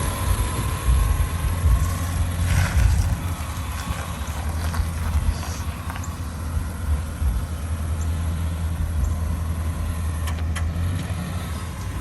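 Classic car driving, its engine giving a steady low rumble with road noise, on a test ride after being lifted with coil spring spacers.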